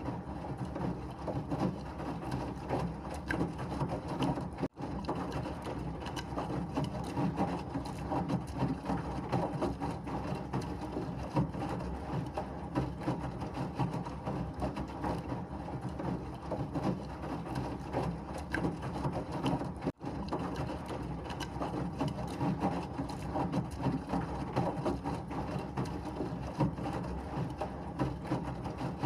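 Washing machine running, a steady rumbling, rattling churn of the drum. It cuts out for an instant twice, about five seconds in and near twenty seconds in.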